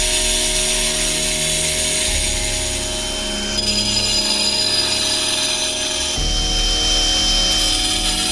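Ryobi angle grinder running against stone, a steady high whine over a gritty grinding noise that changes abruptly about 2, 3.5 and 6 seconds in.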